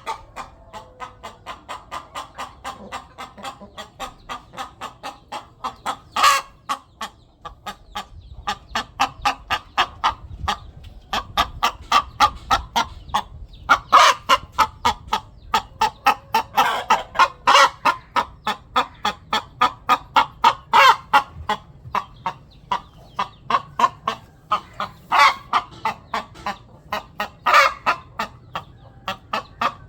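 A hen clucking steadily in a long run of short calls, about two to three a second, with a few louder, sharper calls now and then. This is the clucking of a hen looking for a nest to lay her eggs.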